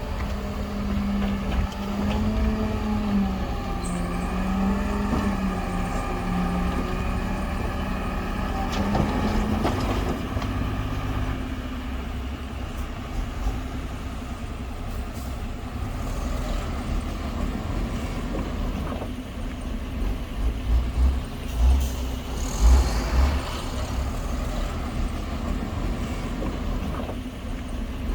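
Heavy diesel earthmoving machinery running, its engine pitch rising and falling over the first ten seconds, then holding steady. Irregular low thumps come in over the last several seconds.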